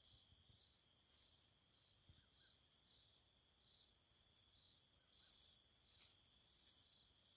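Faint night-time insect chorus: a continuous high, even trill, with a fainter, higher chirp repeating every half second or so, and a couple of soft clicks.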